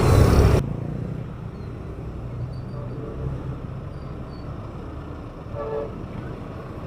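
Low steady rumble of a truck engine. A loud noisy burst at the start cuts off suddenly, and a brief pitched sound comes about five and a half seconds in.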